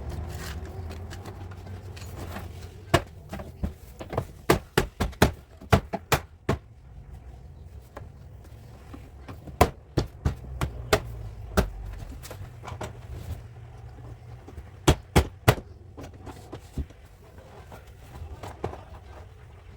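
Sharp metallic taps on a car's sheet-metal body panel as a dent is worked out, coming in quick clusters of strikes with pauses between them, over a low background rumble.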